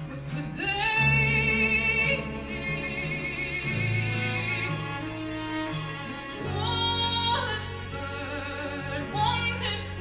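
Musical-theatre song: a woman singing long held notes with vibrato over an accompaniment of piano, bowed strings and band.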